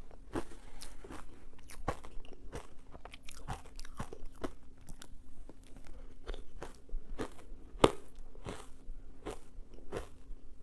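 Ice being bitten and crunched between the teeth, sharp cracks coming about one or two a second, with one louder crack about three-quarters of the way through.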